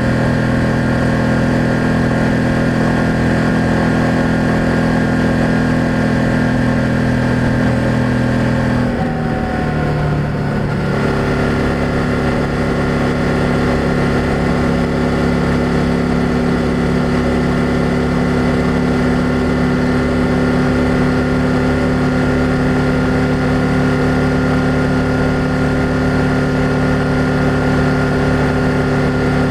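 BMW F800GS parallel-twin motorcycle engine and exhaust running steadily under way. The engine note dips and shifts briefly about nine seconds in, then holds steady again.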